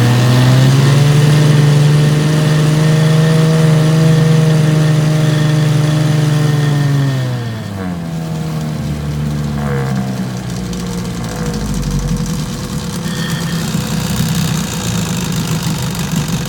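1968 Evinrude Sportwin 9.5 hp two-cylinder two-stroke outboard running in a test tank. It runs steadily at a higher speed, then about seven seconds in it slows with a falling pitch and settles into a slower, quieter idle.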